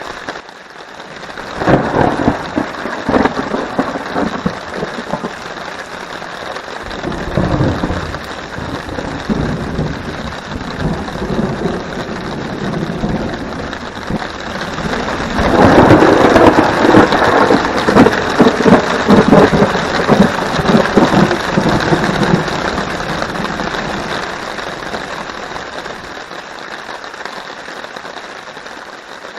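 Thunderstorm overhead: steady heavy rain drumming on a tarp, with thunder rumbling about two seconds in, again around seven seconds, and a longest, loudest peal starting about halfway through that rolls on and slowly fades.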